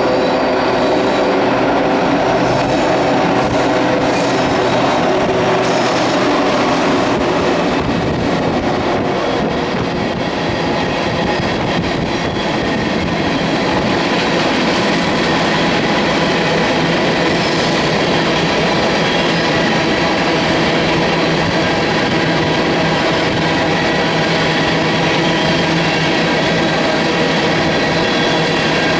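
Freight train passing: diesel locomotive engines are loudest for the first several seconds, then the grain train's cars roll past, wheels running on the rails with steady high ringing tones over the rumble.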